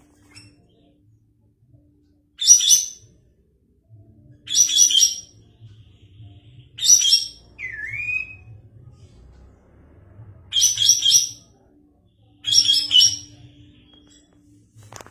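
Kapas tembak songbird singing: five short, sharp phrases of about three quick high notes each, spaced roughly two seconds apart, with a single swooping whistle just after the third phrase.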